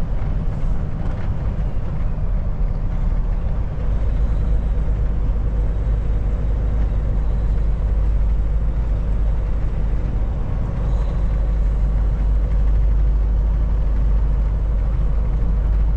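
Inside the cab of a Kenworth T680 semi truck on the move: a steady low engine drone with road noise, the deep rumble growing stronger about four seconds in.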